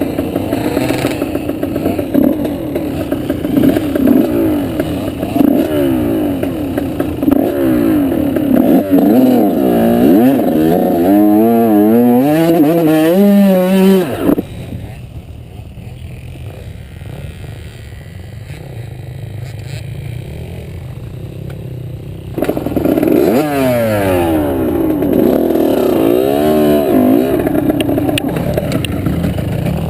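Motorbike engine revving up and down repeatedly, its pitch rising and falling with the throttle. About halfway through it suddenly drops to a much quieter, low running for several seconds, then revs hard again.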